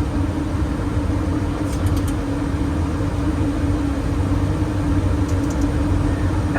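Steady Boeing 737NG flight-deck noise on approach: a deep rumble of airflow and engines with a steady hum over it, and a few faint ticks about two seconds in and again near the end.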